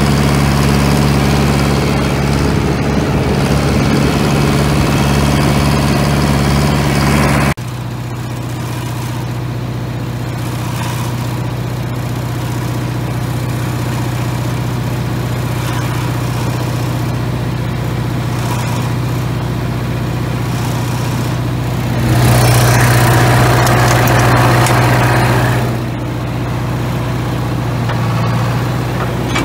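An engine running steadily. Its sound changes abruptly about a quarter of the way in, and it runs louder for a few seconds near the end.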